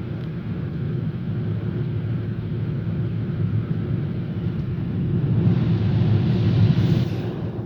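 Boeing 777-300 airliner in flight on its landing approach, heard from the passenger cabin: a steady low rumble of engines and airflow. A hiss swells about five seconds in and falls away near the end.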